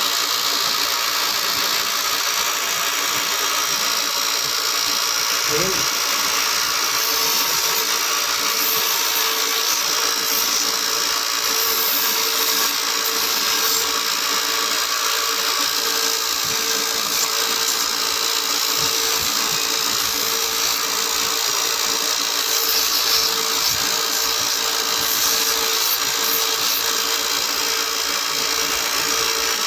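Factory machinery running steadily, with a constant hum that comes in about six seconds in.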